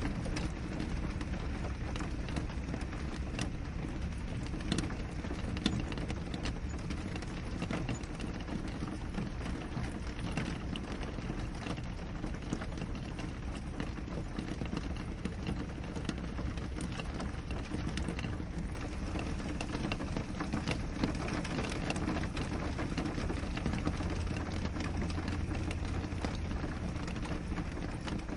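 Steady rain on a window, an even wash of noise with frequent sharp taps of individual drops.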